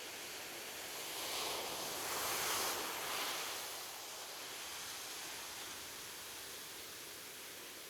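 Ocean surf on a beach: a steady wash of waves, with one wave swelling up about a second in, breaking loudest around two and a half seconds, then fading back to the steady wash.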